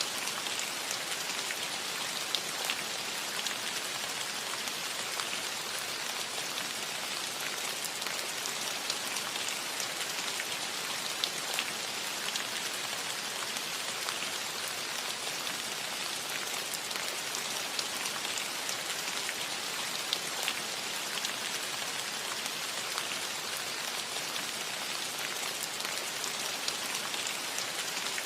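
Steady rain falling on a metal roof: an even hiss with many small, sharp drop ticks pattering on the sheet metal.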